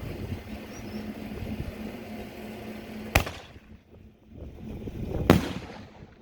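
Two sharp, loud bangs about two seconds apart from a Dragon Black Box silver top artillery shell: the lift charge firing it out of the mortar tube, then the shell's salute breaking in the air, the second bang slightly louder.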